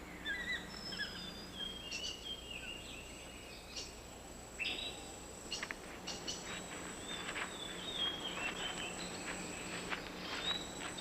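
Tropical rainforest ambience: birds giving short chirps and whistled calls over a steady background hum of insects, with a burst of quick chirping in the second half.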